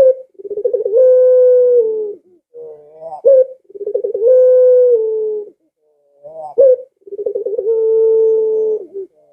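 Puter pelung (domestic Barbary dove) cooing: three calls, each a short rising stuttered note followed by a long, steady, drawn-out coo that drops at the end.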